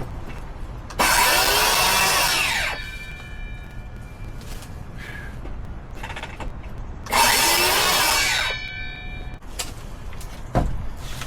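A power tool run twice, each run lasting about a second and a half, its pitch shifting under load. A single knock near the end.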